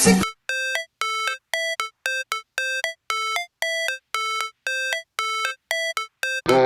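A simple electronic melody of short beeping notes, like a phone ringtone, at about three notes a second with clean gaps between them. A loud song cuts off just after the start, and another song comes in near the end.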